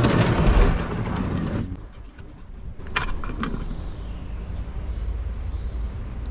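Engine oil gushing out and splattering into a drain pan for about a second and a half, then stopping abruptly, followed by a couple of sharp clicks. This is the oil left in the engine's oil system after the sump-plug drain.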